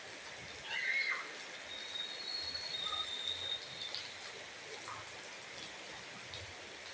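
Steady hiss of falling rain. A faint thin high tone sounds for about a second in the middle.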